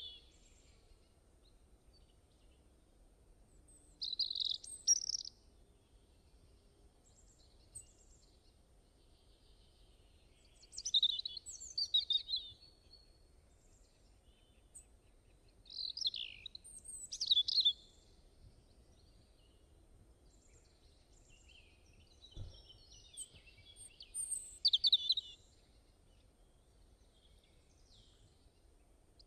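A songbird singing short, high, quick phrases of a second or two each, repeated every few seconds with quiet gaps between.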